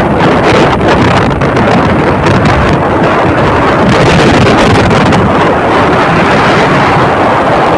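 Motorcycle engines running, heavily mixed with wind buffeting the microphone in a loud, steady rush of noise.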